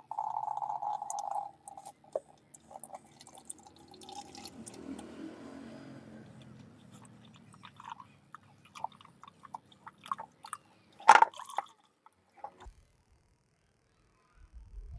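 Oil pouring and dripping out of a John Deere 5405 tractor's loosened hydraulic oil filter into a catch container. Scattered clicks follow, with one sharp knock about eleven seconds in.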